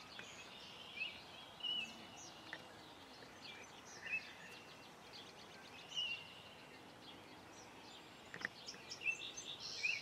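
Birds chirping in short, scattered calls over faint steady background noise.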